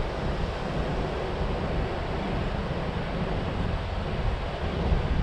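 Steady ocean surf washing onto the beach, mixed with wind buffeting the microphone as a low rumble.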